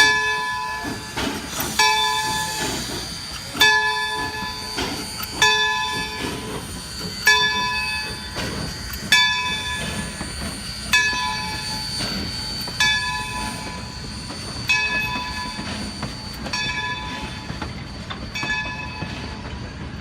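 Locomotive bell ringing slowly and steadily, one stroke about every two seconds, each stroke ringing on, over the low rumble of a train running on the rails. The strokes grow fainter in the second half.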